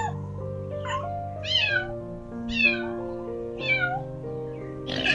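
Kittens meowing: short, high calls that fall in pitch, about one a second, over soft piano music. A loud rushing noise starts near the end.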